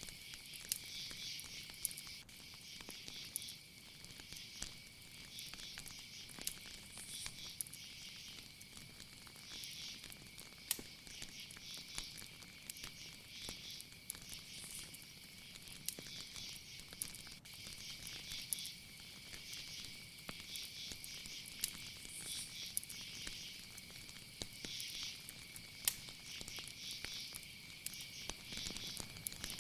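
Night insect chorus: a steady high trill, with another insect's pulsing chirps repeating about once a second, over scattered faint crackles.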